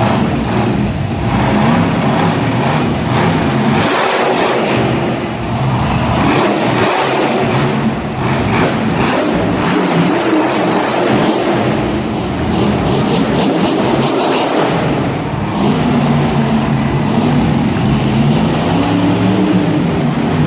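Monster truck's supercharged V8 engine revving hard, its pitch rising and falling as the throttle is worked, loud throughout.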